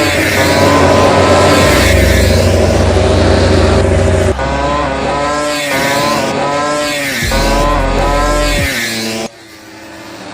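MotoGP racing motorcycle engines at full throttle, their pitch climbing through the gears in a run of abrupt cuts from one bike to the next. Near the end the sound drops away suddenly, then builds again.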